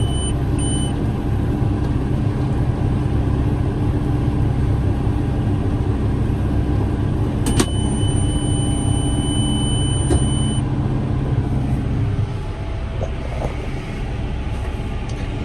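Tractor engine running steadily under load while pulling a hay baler, heard from inside the cab. About seven and a half seconds in, a click is followed by a steady high electronic beep lasting about three seconds. Near the end the engine note drops a little.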